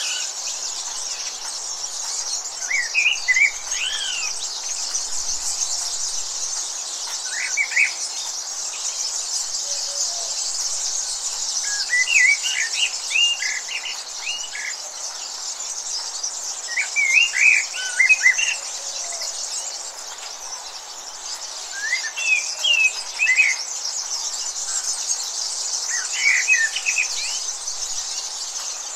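A bird singing short chirping phrases, repeated every four to five seconds, over a steady high chirring of insects.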